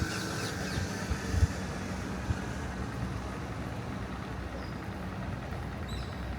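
City street ambience: a steady low rumble of road traffic with a faint hum and a few light knocks.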